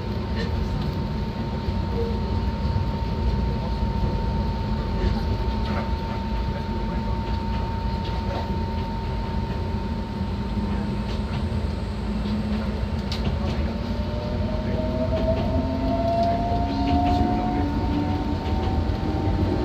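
Enoshima Electric Railway (Enoden) electric train running, heard from inside the car: a steady low rumble of wheels on rail with a few light clicks and a constant whine. From about halfway through, a motor whine slowly rises in pitch as the train gathers speed.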